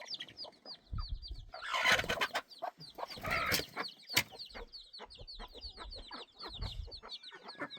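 Chickens clucking and peeping: a steady run of quick, high, downward chirps, several a second, with louder rough bursts about two and three and a half seconds in and a sharp click a little later.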